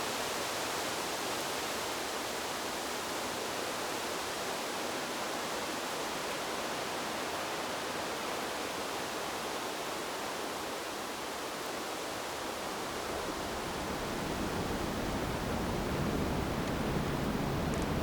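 Wind blowing through a bamboo grove: a steady, even rush of noise that grows louder and deeper near the end as a stronger gust comes through.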